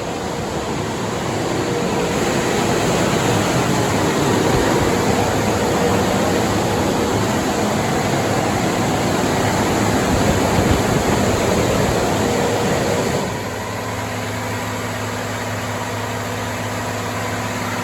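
Cat C15 diesel in a Kenworth W900 running under load on a chassis dyno: a loud, even rush of engine, exhaust and roller noise. About 13 seconds in it drops to a quieter, steady engine hum as the load comes off.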